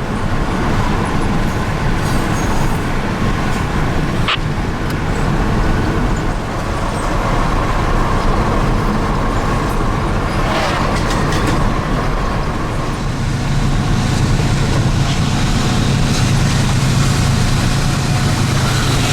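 A car driving at speed, with steady road and engine noise. There is a single click about four seconds in, and a deeper hum grows louder from about thirteen seconds in.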